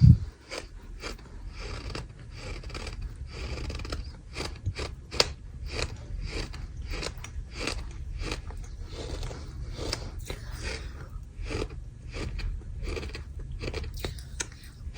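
Dry crunchy sand crumbling and crackling as it is poured and broken up, a dense run of small crunches with a thump right at the start.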